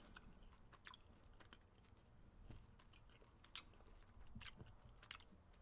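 Faint chewing of a frozen pecan Snickers bar, with a few soft crunchy clicks scattered through it.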